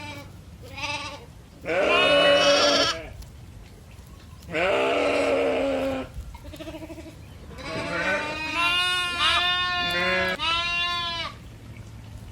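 Farm animals bleating: a short call about a second in, two long drawn-out bleats around two and five seconds, then a run of quick, wavering bleats near the end.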